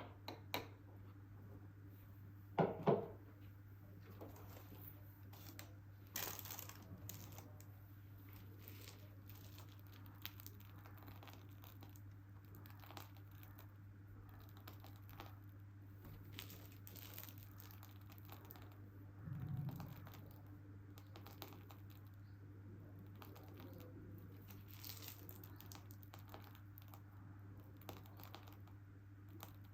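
Faint crinkling and rustling of plastic, with scattered small clicks and taps, typical of handling a plastic piping bag and tools while decorating a cake. The louder handling noises come about 3 and 6 seconds in, and a soft low thud comes near 20 seconds, all over a steady low electrical hum.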